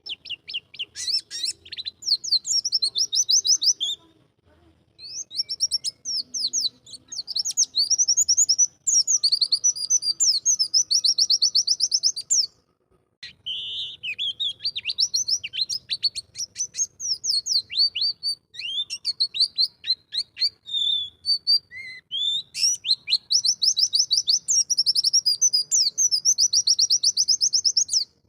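White-eye (pleci) singing: long, fast twittering strophes of rapid high notes, broken by two brief pauses.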